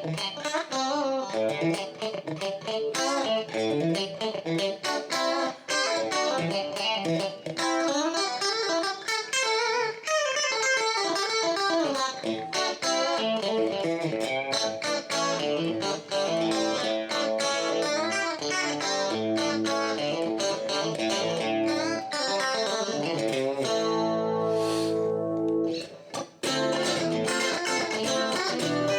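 Electric guitar played on a clean tone: a flowing run of picked single notes and chords, with a long held chord near the end that briefly dies away before playing resumes.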